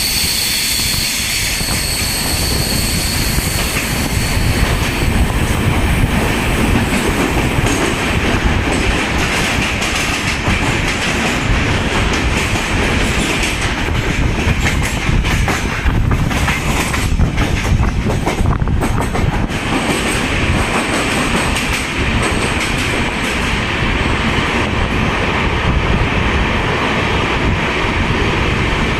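Express passenger train running through a tunnel, heard from an open coach doorway: a loud, steady rumble of wheels on rail with clickety-clack. A high wheel squeal sounds through the first few seconds and then fades.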